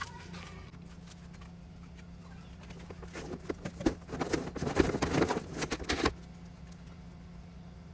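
Water splashing and gurgling in a dense, irregular run of knocks for about three seconds as the pool robot vacuum is lowered into the pool, over a steady low hum.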